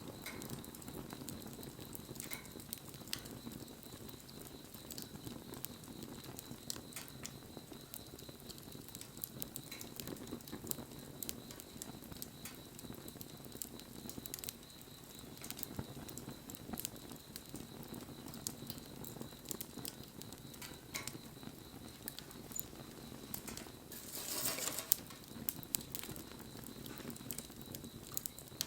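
Wood bonfire burning: scattered crackles and pops over a low, steady rush of flame, with a brief louder burst of crackling and hiss a few seconds before the end.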